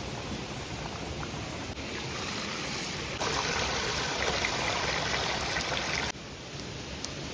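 Steady rushing of flowing stream water, jumping in loudness at shot changes about two, three and six seconds in.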